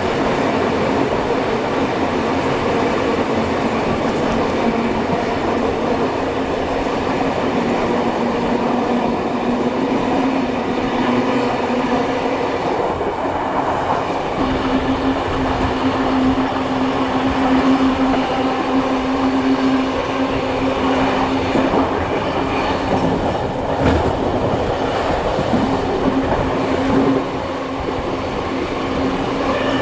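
Steam-hauled heritage passenger train heard from on board while running: a steady rumble of wheels on rails with a droning tone that dips out briefly about halfway through, and a single sharp knock near the end.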